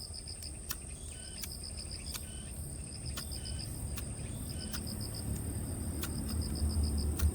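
Crickets chirping outdoors in short rhythmic trills about every second and a half over a steady high insect whine, with scattered sharp clicks and a low rumble that grows louder near the end.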